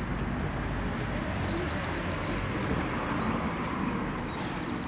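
A songbird singing a fast run of many short, high, downward-sliding notes lasting about four seconds, over a steady rushing background noise.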